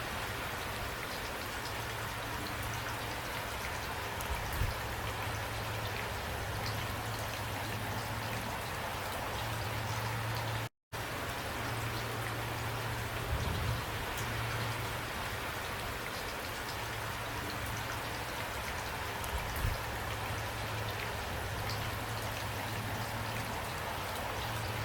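Steady, heavy rain falling and pattering on surfaces, with a few soft low thuds. The sound cuts out completely for a moment about eleven seconds in, then resumes unchanged.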